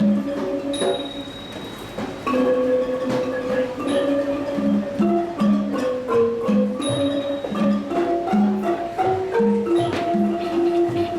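A group of ranat ek, Thai wooden xylophones, playing together: a continuous melody of struck mallet notes.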